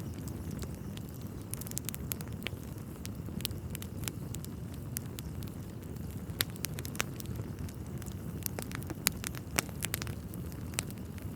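Wood fire burning in a fireplace: a steady low roar of flames with irregular sharp crackles and pops from the burning logs, a few louder snaps among them.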